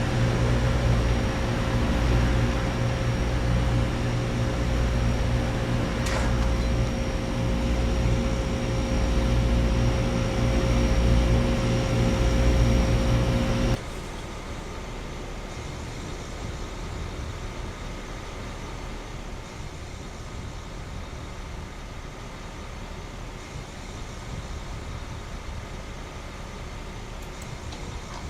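Central air conditioner condensing unit running: a steady compressor hum with a fan and a faint high whine. About halfway through it cuts off sharply, leaving a much quieter steady background hum.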